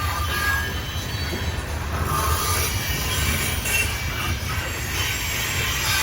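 Freight train rolling past with a steady low rumble, its wheels giving short, high-pitched squeals here and there as the cars enter the yard.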